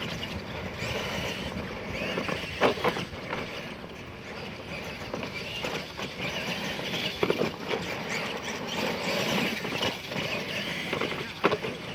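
Radio-controlled monster trucks racing, their motors running steadily, with a few brief louder knocks along the way.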